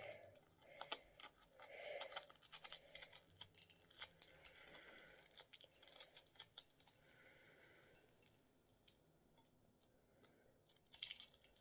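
Faint crackling and clicking of a boiled egg's shell being cracked and peeled off by hand, in scattered small crackles that thin out after about seven seconds, with a couple more clicks near the end.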